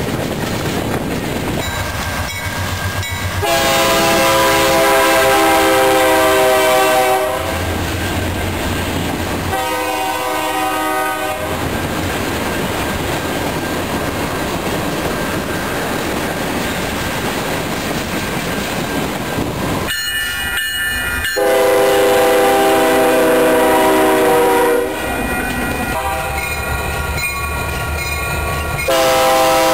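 Freight cars rolling past on jointed rail with a steady rumble and clatter, while a diesel locomotive's multi-chime air horn sounds four blasts: a long one about 3 seconds in, a short one about 10 seconds in, a long one a little past 20 seconds, and another starting just before the end.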